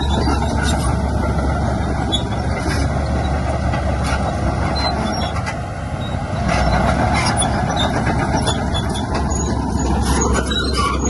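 Heavy diesel earthmoving machinery running steadily under load, with a deep low hum and occasional short knocks.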